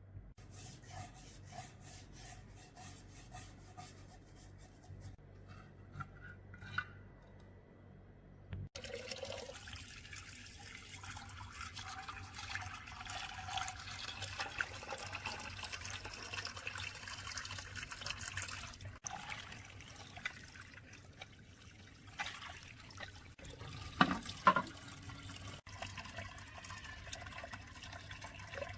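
Water running and splashing, with light clicks and, about two-thirds of the way in, two sharp knocks.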